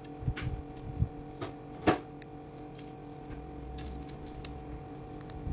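Plastic building-block pieces clicking and knocking as they are handled and fitted, a few separate clicks with the sharpest about two seconds in, over a steady low hum.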